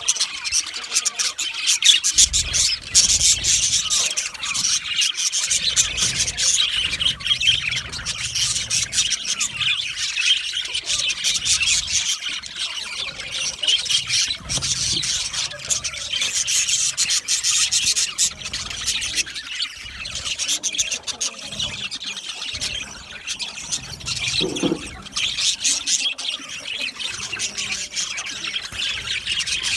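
Budgerigars chattering and chirping steadily, a dense stream of quick, overlapping warbled calls.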